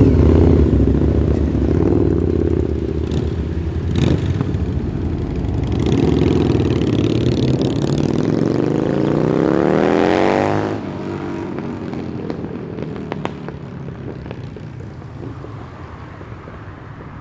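Holden Commodore's engine with a lumpy idle as the car rolls off, then revving up in a long rising pull that ends abruptly a little past halfway through, after which the engine sound fades as the car drives away.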